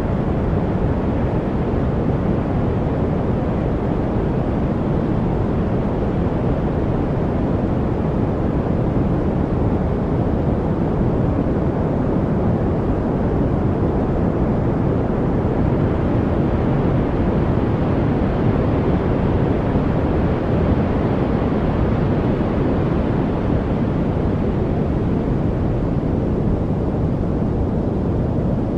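Steady, unbroken noise track with its weight in the low end: a deep, even rush with no birdsong, drips or other distinct events.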